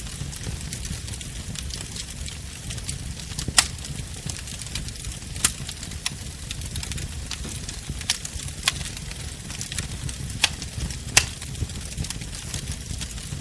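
Wood fire burning, a steady low rumble under fine crackling, with six or so sharp pops of burning wood spread through.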